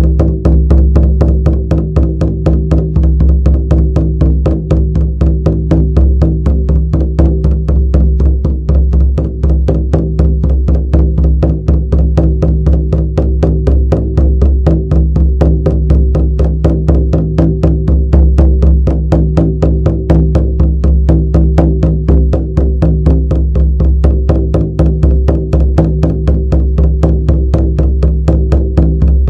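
Shamanic frame drum beaten in a fast, even, unbroken rhythm, with a steady low drone under the beats.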